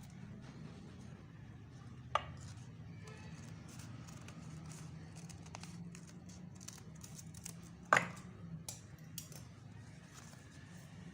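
Paper craft handling: light ticks and rustles with two sharp clicks, about two seconds in and again near eight seconds, over a steady low hum.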